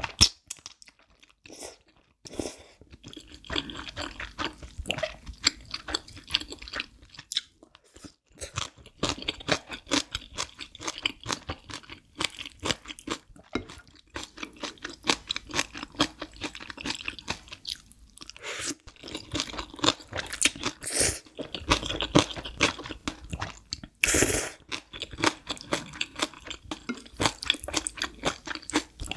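Close-miked eating: steady chewing of black bean noodles and green onion kimchi, with many small wet crunches and mouth clicks. A brief louder burst of noise comes toward the end.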